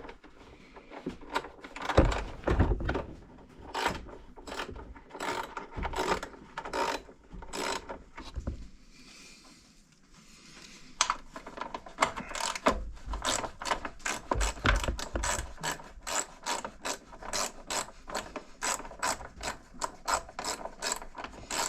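Ratchet socket wrench clicking in quick runs as bolts are backed out of a mower engine, with a short pause about halfway through.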